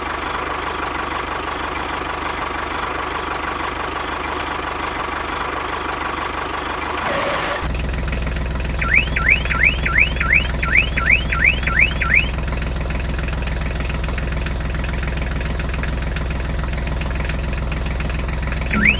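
A steady mechanical hum. About seven and a half seconds in it gives way to a louder, deeper engine-like drone. A quick run of about a dozen rising electronic chirps follows a second later, like a car alarm.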